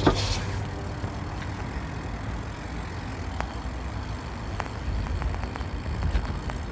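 Steady low rumble of a bicycle ride along a street, wind and tyre noise on the microphone, with a few light clicks.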